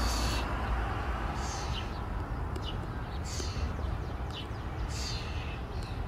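Birds chirping: short, high calls repeated about once a second, each dropping in pitch at the end, over a low steady background rumble.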